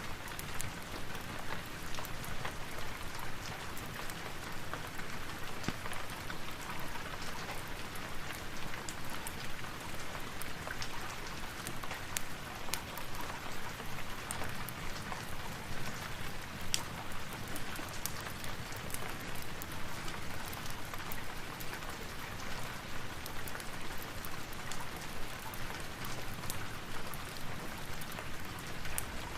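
Steady rain falling, mixed with many small sharp crackles and pops of the kind a burning fireplace makes.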